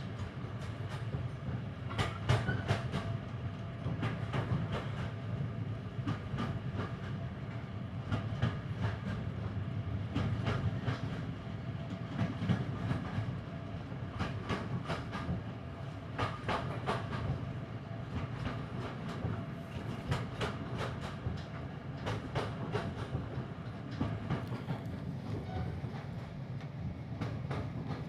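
Train ride heard from inside a passenger coach hauled by a class 55 Deltic diesel locomotive: a steady low rumble, with the wheels clicking over rail joints in quick clusters every few seconds.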